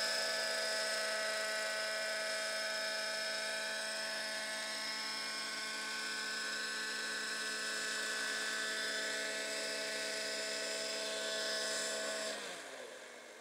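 Radio-controlled helicopter's motor and rotor whining at a steady pitch, then winding down with a falling pitch and dying away near the end, which the flyer puts down to a flat, worn-out battery.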